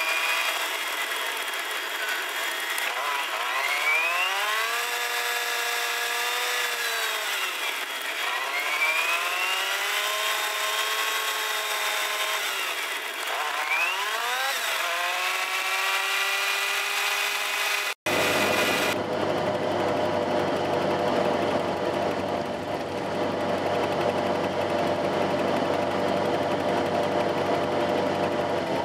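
Fiat 500's air-cooled two-cylinder engine heard from inside the cabin, sped up with the time-lapse: it revs up and shifts through the gears again and again, its pitch climbing and levelling off every few seconds, with a power-tool-like whine. After a sudden cut about 18 seconds in, it runs at a steadier, lower-pitched drone.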